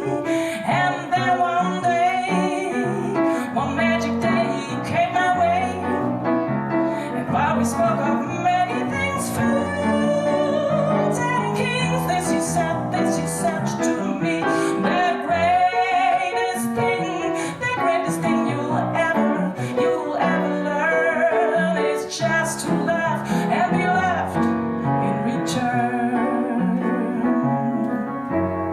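Harp and piano playing an instrumental passage of a jazz ballad, with many plucked and struck notes.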